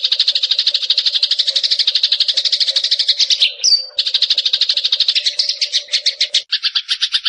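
Eurasian tree sparrow giving fast rattling chirp trills of about ten notes a second, broken briefly near the middle by a short high note, then running on. A faint steady hum lies underneath until near the end.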